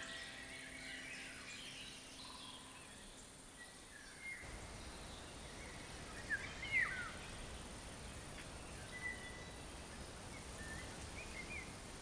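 Faint outdoor ambience with scattered short bird chirps. A brief flurry of bird calls a little past the middle is the loudest moment.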